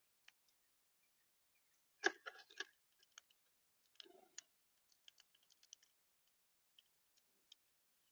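Faint, scattered clicks and taps of birds at a seed feeder, pecking and shuffling on it, with a short quick flurry about two seconds in.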